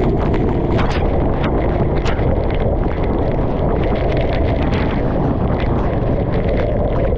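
Loud wind buffeting the microphone over a steady low rumble, with frequent sharp crackles.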